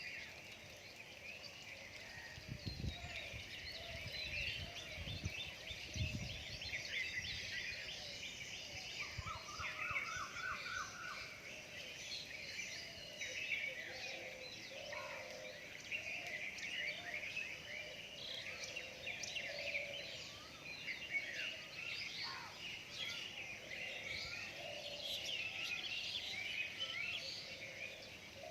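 Dawn chorus of many birds chirping, trilling and singing over one another without pause, with a short rapid run of repeated notes about ten seconds in. A few low thuds come about three to six seconds in.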